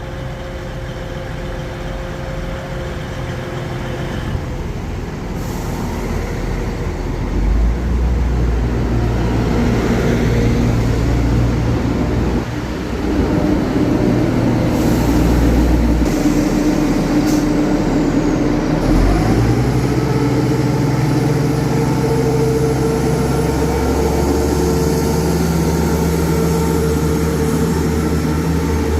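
Class 170 Turbostar diesel multiple unit's underfloor engines running under power, growing louder, with the engine note stepping up about 7 seconds in and again near 19 seconds. A brief hiss about halfway through.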